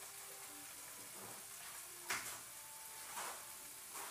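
Tomato paste and sauce sizzling in a nonstick frying pan on a gas stove burner: a faint steady hiss, with two sharper pops about two and three seconds in.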